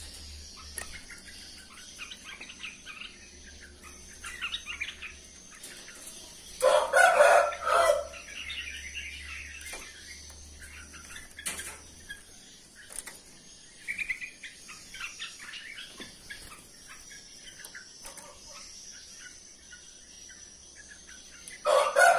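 A rooster crows loudly about seven seconds in and again right at the end, over scattered chirping of small birds.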